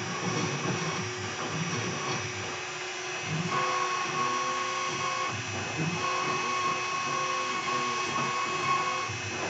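CNC router carving: the air-cooled spindle runs steadily under load, with a higher whining tone that switches on and off from about three and a half seconds in, and short whines that rise and fall in pitch as the machine moves.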